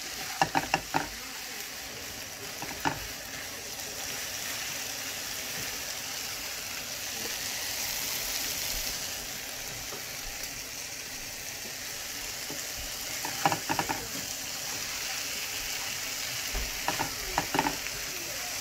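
Scrambled eggs with ham, bell peppers and tomato sizzling in a skillet, a steady frying hiss. A spatula stirs and scrapes the food against the pan, with sharp clicks in short runs about half a second in, near three seconds, and twice more in the last third.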